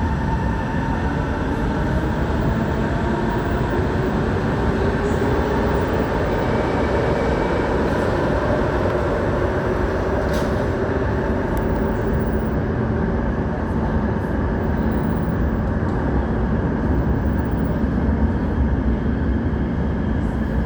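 Singapore MRT train moving through an underground station: a steady, loud rumble with a motor whine that slowly shifts in pitch.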